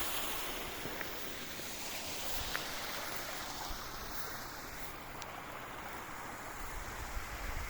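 Spring water running steadily from a fountain spout, an even rush of flowing water, with some low rumble near the end.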